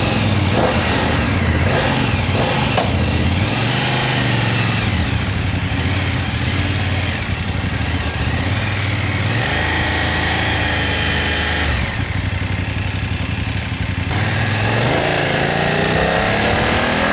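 Motorcycle engine running and revving, its pitch rising and falling as it rides and accelerates, with a rising sweep near the end.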